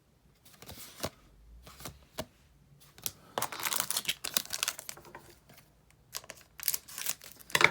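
Trading card booster pack wrapper crinkling and being torn open, after a few sharp clicks in the first couple of seconds.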